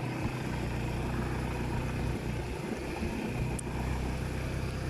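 Motorcycle engine running at low speed, a steady low drone as the bike rolls along slowly.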